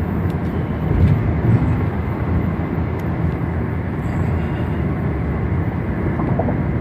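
Steady road and engine rumble heard from inside the cabin of a moving car.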